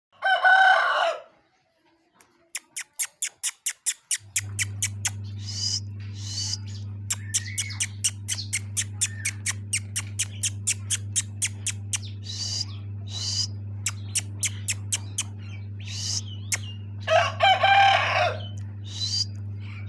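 A rooster calls twice, each call about a second long, once at the start and again near the end. Between the calls comes a rapid, regular clicking with short high chirps. A steady low hum starts about four seconds in.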